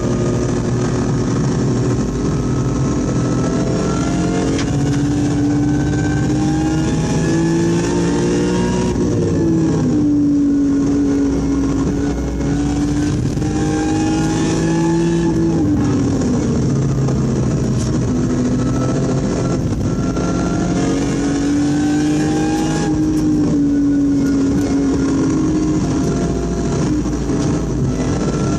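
BMW E46 M3's S54 straight-six engine under hard acceleration, heard from inside the cabin. The pitch climbs steadily and then drops back three times as the driver shifts gear or lifts off for corners.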